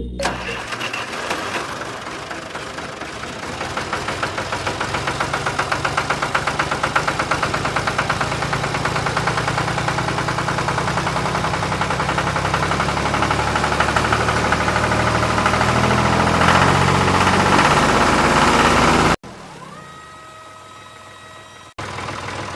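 Small motor-driven model machine running with a fast, steady rattling pulse, like a little motor and gears at work. It cuts off sharply about 19 seconds in, followed by a quieter stretch with a faint steady whine.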